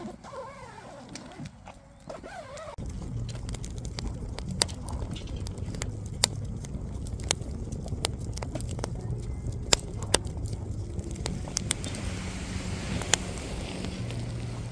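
Wood fire burning with a low rumble and frequent sharp crackles and pops, starting suddenly about three seconds in after a quieter stretch of faint wavering tones.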